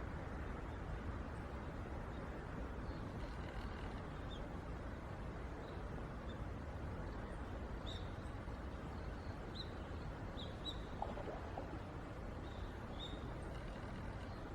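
Outdoor ambience: a steady low background rumble with faint, short, high bird chirps scattered through it, and one brief lower call about eleven seconds in.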